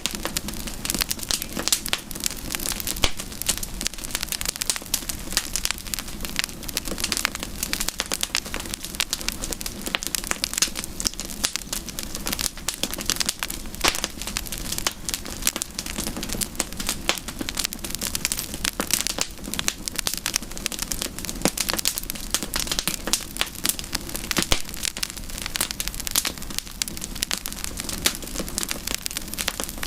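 Campfire of burning wood crackling and popping steadily, with dense sharp snaps over a soft hiss.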